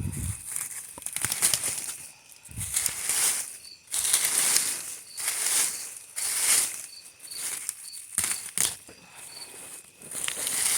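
Repeated rustling, scraping strokes of hand yard work, about one every second or so and irregular, with a few faint high chirps between them.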